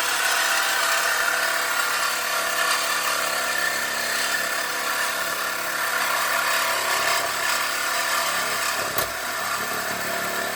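Power tool cutting through the exhaust pipe to remove the mufflers, running steadily with a constant whine.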